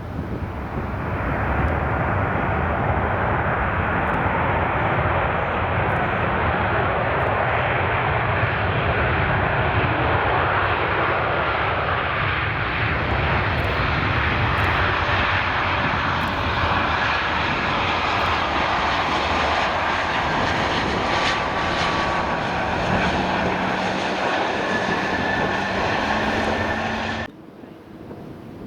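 Jet airliner engines running loud and steady as the aircraft passes close, with a faint whine rising slightly near the end. The sound cuts off suddenly shortly before the end.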